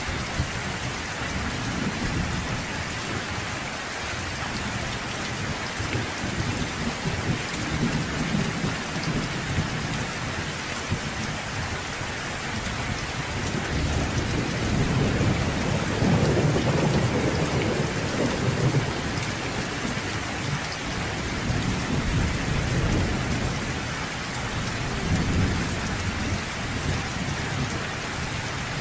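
Steady heavy rain hissing on surfaces, with low rolling thunder rumbling underneath; the rumble swells loudest about halfway through and again briefly near the end.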